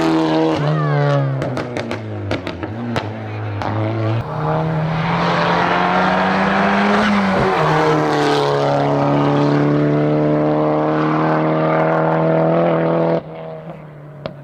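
Race car engine on a hillclimb run. It runs low with a string of sharp cracks for the first few seconds, then accelerates hard with the pitch climbing, shifts up once near the middle and climbs again, before the sound drops away suddenly near the end.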